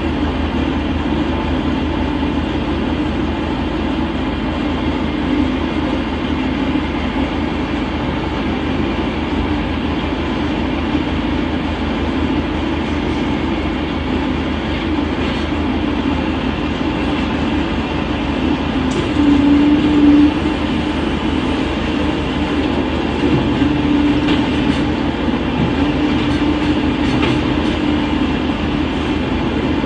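Side-loader garbage truck running steadily while its automated arm grabs, tips and returns a wheelie bin, with a hydraulic drone that swells about two-thirds of the way through and again near the end, and a few short knocks.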